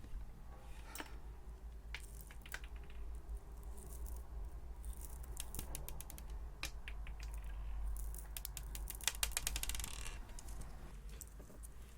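Hands squishing and stretching cloud cream slime, with soft sticky crackles and small popping clicks. A dense run of rapid crackling comes near the end.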